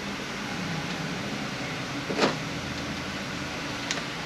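Steady fan-like background noise in a workshop, with one short knock about two seconds in and a faint tick near the end, as transmission parts and tools are handled on the bench.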